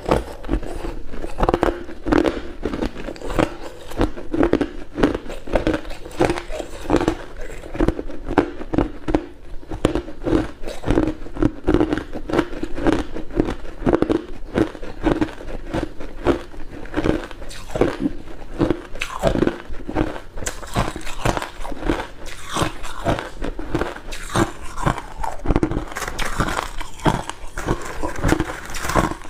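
Hard cube ice being bitten and chewed close to the microphone: a continuous run of sharp, crisp cracks and crunches in a repeating chewing rhythm.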